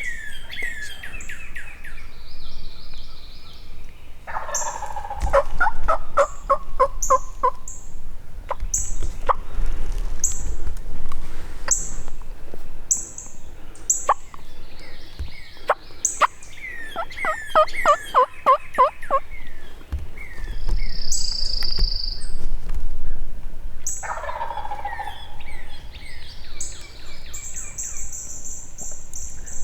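Wild turkey calling: three runs of loud, evenly spaced yelp-like notes, about three a second, with a high-pitched chirp repeating about once a second in the background.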